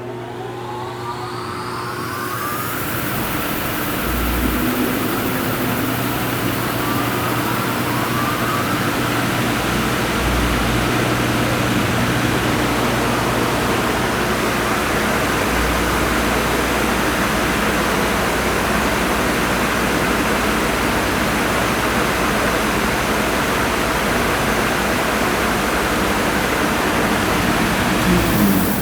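Timesavers Puma three-head wide belt sander's head motors starting one after another, each spinning up with a rising whine and a low thump, building to a loud, steady mechanical rush as the heads run together. Near the end a falling tone as a motor winds down.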